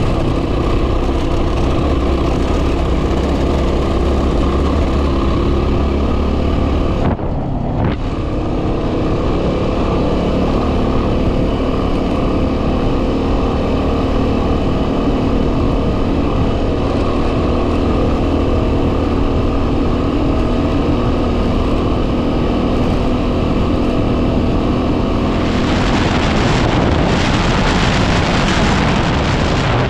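Yamaha WR250R single-cylinder four-stroke engine running steadily while riding, the engine note dipping briefly about seven seconds in. Near the end, wind noise buffets the microphone.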